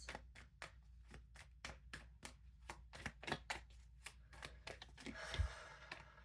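Tarot deck being shuffled by hand: a steady run of soft card slaps, a few a second, with a longer papery rustle about five seconds in.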